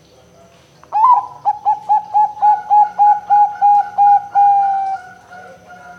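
Zebra dove (perkutut) cooing: starting about a second in, a fast run of about a dozen short, clipped notes, about four a second. It ends in one longer drawn-out note, then a few softer trailing notes.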